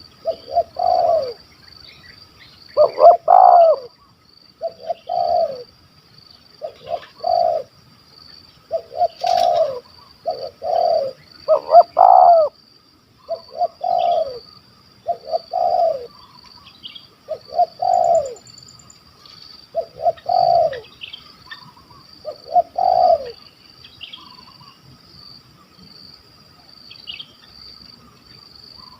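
Spotted dove cooing repeatedly: short, low coos in groups of two or three, coming every second or two. A steady high-pitched insect buzz runs behind it.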